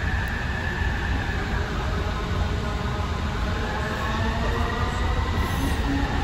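AirTrain JFK automated people-mover car running on its elevated guideway: a steady low rumble with a high whine from its linear induction motor that climbs in pitch over the last few seconds as the train gathers speed.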